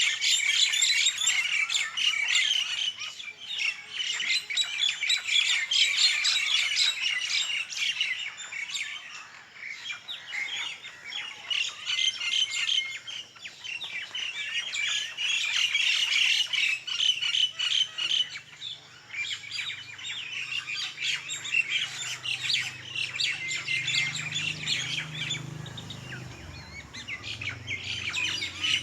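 A flock of birds chirping and squawking together in a dense, continuous chorus. A low steady hum joins in from a little past halfway.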